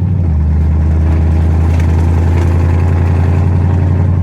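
Loud, steady low exhaust drone from a naturally aspirated car engine at low revs on light throttle, heard from inside the cabin.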